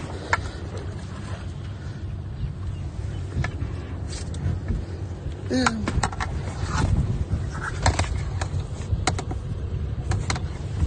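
Steady low engine rumble with scattered clicks and knocks, and a short falling voice-like sound about halfway through.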